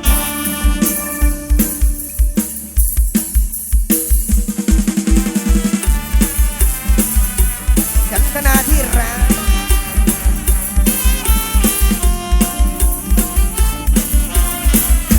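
Instrumental break in Isan mor lam music: a drum kit keeps a fast, steady beat under a melody line, with no singing.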